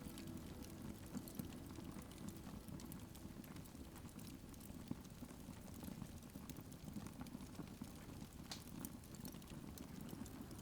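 Wood fire crackling faintly in a fireplace: a soft hiss with scattered small pops and snaps.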